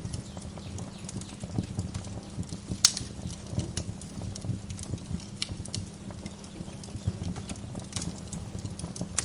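Wood fire crackling and popping in a fireplace: irregular sharp snaps over a low steady rumble, with one louder pop about three seconds in.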